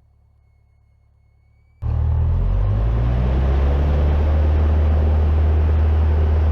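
Near silence with a faint hum, then about two seconds in the Cessna 172N's four-cylinder Lycoming engine comes in loud as full power is applied for the takeoff roll: a steady low drone that rises slightly in pitch as the engine winds up, then holds.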